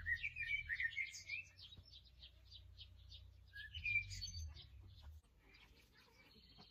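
Songbirds chirping and singing: a fast, steady run of short high chirps, with louder warbling phrases in the first second and a half and again around four seconds in. A low rumble underneath stops about five seconds in.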